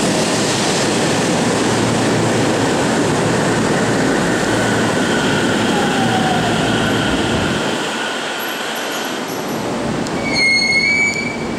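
JR 313 series electric train braking into the platform: wheel and running noise with squealing brakes, the low rumble dying away as it comes to a halt about eight seconds in. A brief high tone sounds near the end.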